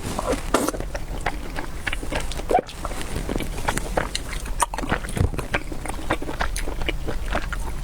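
Close-up mukbang eating sounds: wet chewing and mouth smacks with irregular small clicks, as a person eats noodles and soup.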